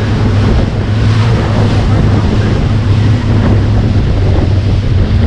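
Motorboat engine running steadily under heavy wind buffeting on the microphone and rushing water.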